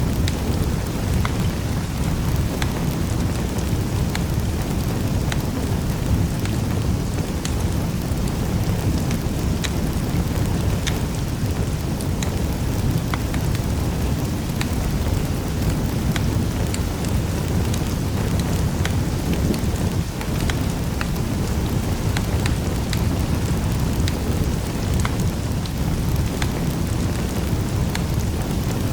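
Wood fire crackling in a fireplace: irregular sharp pops and snaps scattered throughout, over a steady low rumble of the burning fire.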